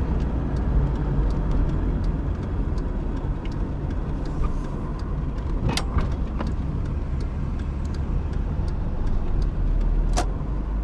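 A car being driven, with a steady low rumble of engine and road noise. Light knocks run through it, with two sharper ones about six and ten seconds in.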